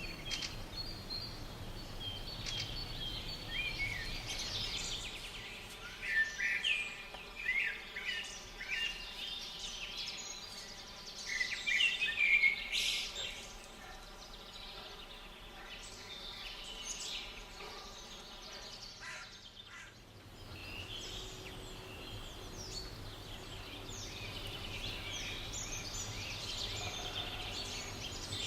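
Small birds singing and calling, a changing mix of short chirps and quick rising and falling phrases, loudest between about six and thirteen seconds in, over a steady low outdoor background noise.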